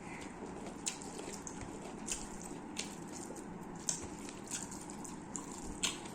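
Short, wet squelching clicks, about one a second at irregular intervals, of biryani rice and raita being mixed and squeezed by hand on a plate, over a steady low room hum.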